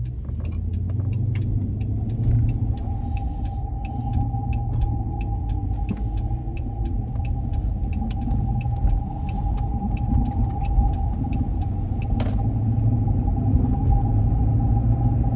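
Dodge Charger driving, heard from inside the cabin: a low engine and road rumble that swells over the first couple of seconds, with scattered small clicks and knocks. A steady whine joins about three seconds in and holds.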